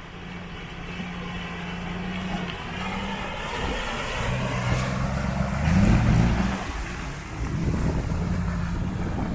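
UAZ off-road vehicle's engine running under load, revving up briefly about two-thirds of the way through, then easing off.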